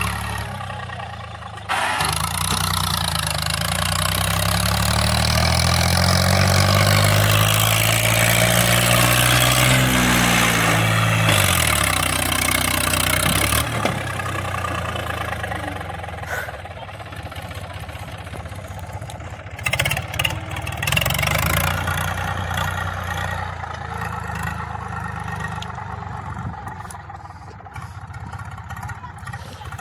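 Eicher 333 tractor's diesel engine revved up over several seconds, held high, then dropped back about ten seconds in. After that it keeps running more quietly, with a few sharp noises about twenty seconds in.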